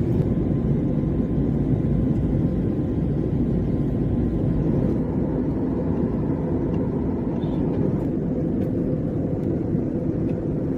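Steady low rumble of an airliner's cabin noise: engines and airflow heard from inside the passenger cabin.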